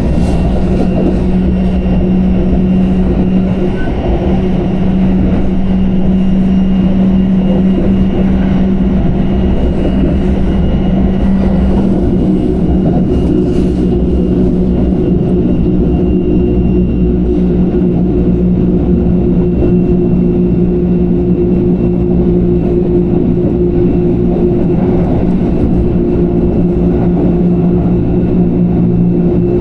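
Train running, a steady low rumble with a droning motor tone that shifts slightly in pitch about twelve seconds in.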